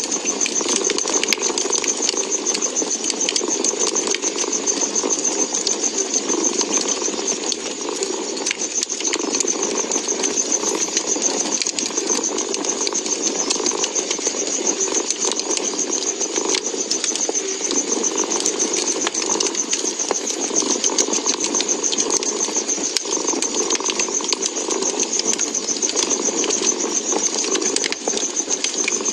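A cat purring steadily, layered with the crackle of a wood fire: many small sharp pops scattered over a constant hiss.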